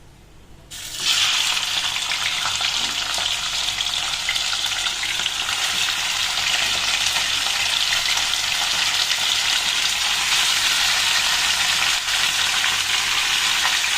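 Chicken pieces going into hot oil in a pan: a loud sizzle starts suddenly about a second in and carries on as steady frying.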